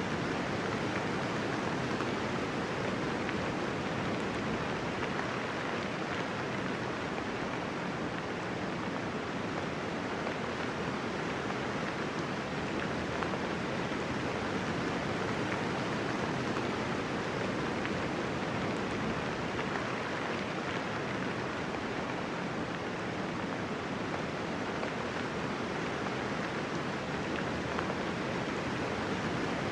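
Steady rain falling, a dense, even hiss of drops without thunder, unchanging throughout.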